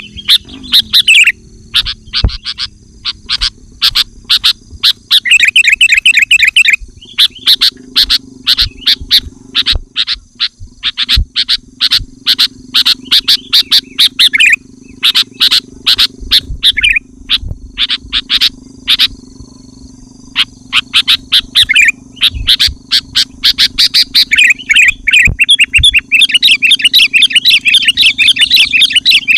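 Sooty-headed bulbuls calling loudly and almost without pause: runs of sharp, quickly repeated chirps broken by fast trilling phrases. It is the excited chatter used to challenge rival birds and lure wild bulbuls.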